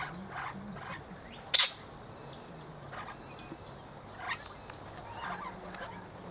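Wild birds making short high chirps at intervals, with a thin whistled note a couple of seconds in. A single loud, sharp sound about one and a half seconds in is the loudest thing heard.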